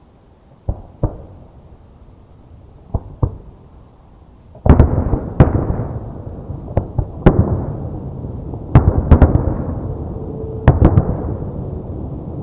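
Aerial fireworks shells bursting. Two pairs of sharp bangs come in the first few seconds, then from about the middle a dense barrage of loud bursts with a continuous rumble between them.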